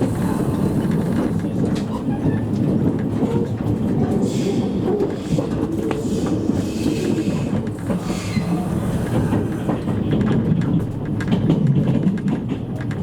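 Running noise heard inside a JR East E653 series electric train car (a motor car): a steady low rumble of wheels on rail, with scattered clicks over rail joints.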